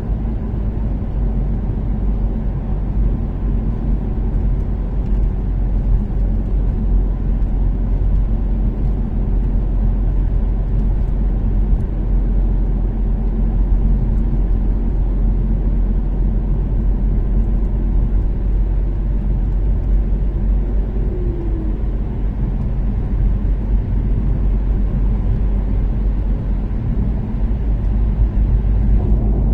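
Toyota Caldina's 3S-GTE turbocharged four-cylinder engine and tyre noise at steady highway cruise, a continuous low drone with no change in engine speed.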